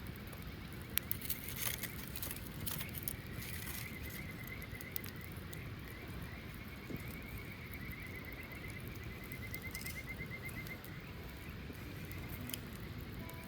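A campfire crackles with a few sharp pops in the first three seconds. A high, rapid trilling call starts a couple of seconds in and carries on steadily for about eight seconds, over a low outdoor hiss.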